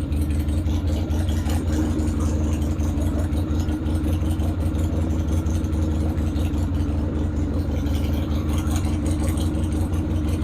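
Harley-Davidson 45 side-valve (flathead) V-twin engine idling steadily.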